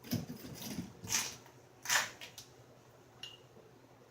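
Three short scraping strokes of stone against the edge of a flint piece, with a faint click a little after three seconds.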